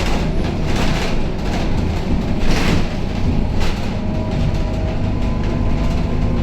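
Scania K270UB city bus under way, heard from inside: the diesel engine runs with a steady low drone over road noise. Several short swells of louder rattling noise come and go.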